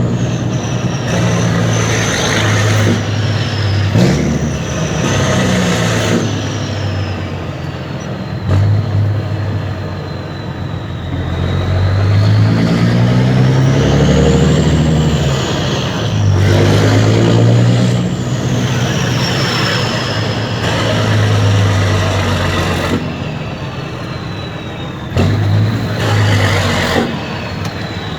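Mercedes-Benz Actros 2636 truck's V6 diesel running through an open, straight-through exhaust, its pitch climbing and dropping several times as it accelerates and eases off. A thin high whistle glides up and down above the engine.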